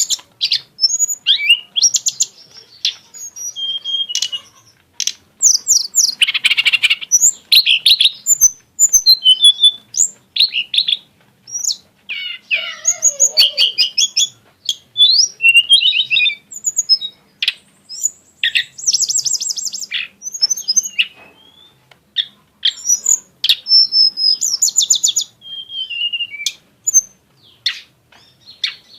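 Tledekan gunung songbird singing a varied run of sharp chirps, whistled notes and fast trills, phrase after phrase with short pauses between them.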